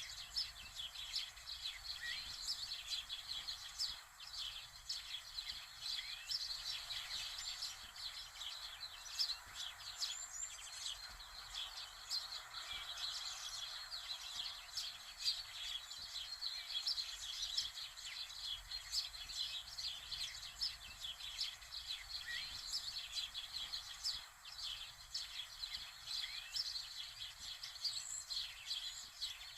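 Many small birds chirping at once: a dense, unbroken chorus of short, high calls over faint outdoor hiss.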